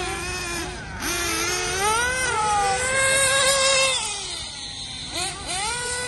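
Small nitro engines of 1/8-scale RC cars revving: a high whine that slides up and down in pitch, holds steady for a second or so, drops, then climbs again near the end.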